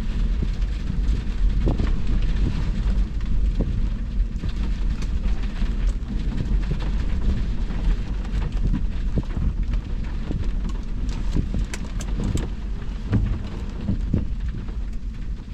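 Heavy thunderstorm rain falling, with many sharp drop ticks, over a continuous low thunder rumble.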